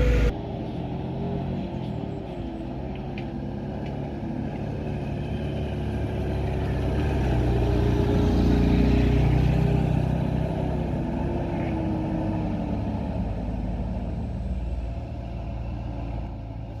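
Truck engine running under load on a steep climb, with a wavering whine above the engine note. It grows louder toward the middle, then fades.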